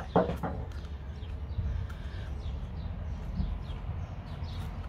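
Small birds chirping in the background, short falling chirps repeated over and over, above a low steady rumble. A few soft knocks just at the start, from potting soil and a small pot being handled.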